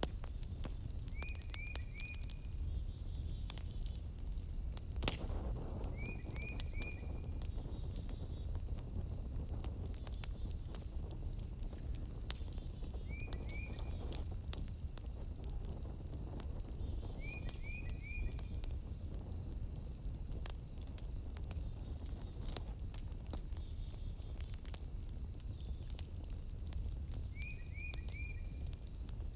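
Wood fire in a fireplace crackling, with sharp pops scattered irregularly over a steady low rumble. A short, high three-note chirp recurs about five times over a constant high hiss.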